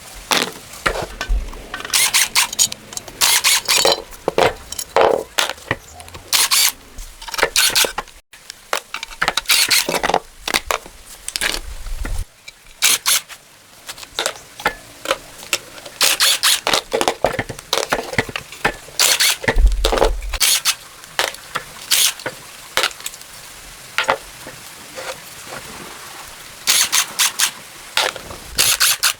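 Hand-tool work on metal engine parts: a long run of irregular short scrapes and clinks, some in quick clusters.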